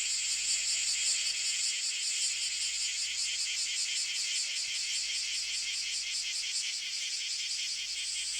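Cicadas droning in a steady, high, rapidly pulsing chorus.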